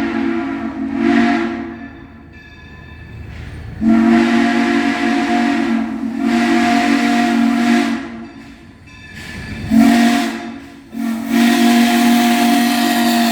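Steam locomotive's chime whistle blowing in separate blasts, a chord of several steady tones with a steam hiss. The blasts run long, long, short, long: the grade-crossing signal.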